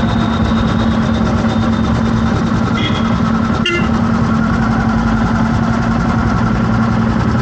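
Street traffic noise: a vehicle engine running steadily, with two short horn beeps about three seconds in.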